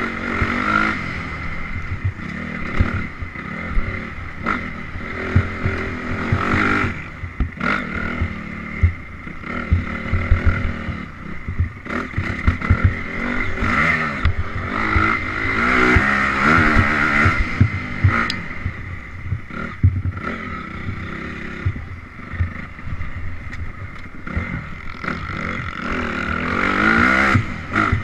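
Honda CRF 250R dirt bike's single-cylinder four-stroke engine being ridden hard, the revs rising and falling over and over, with frequent knocks and clatter.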